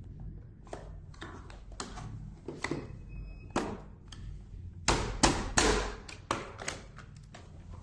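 Hard plastic parts of a robot vacuum's brush and motor assembly clicking and knocking as they are handled and taken apart: a string of irregular taps, busiest about five to six seconds in.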